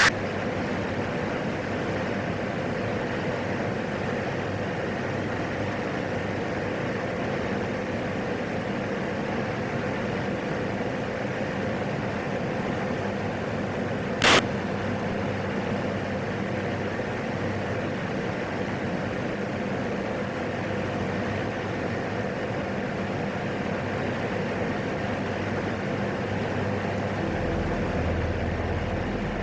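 Steady drone of a PAC 750XL's single turboprop engine in cruise, heard inside the cockpit, with a steady hum running through it. There is one short sharp click about midway, and a deeper hum joins near the end.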